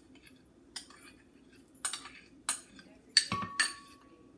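A spoon clinking and tapping against a bowl several times while ingredients are added to a sauce. One strike near the end leaves a short ringing tone.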